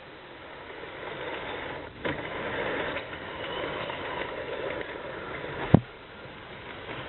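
HO scale model passenger train running along the track, its rolling noise growing louder as it approaches. A sharp click comes about two seconds in, and a louder sharp knock a little before the end.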